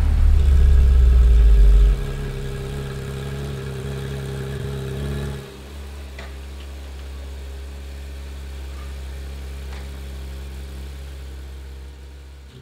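Porsche 911 GT3's naturally aspirated flat-six engine idling steadily. It is loudest for the first two seconds, then drops in level twice, about two seconds in and again about halfway through.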